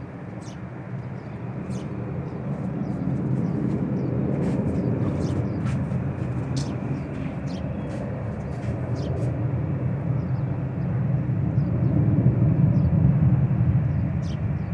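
Airliner cabin noise during takeoff: a steady low rumble of the jet engines at takeoff power heard inside the cabin, swelling louder about a third of the way in and again near the end, with a few faint clicks.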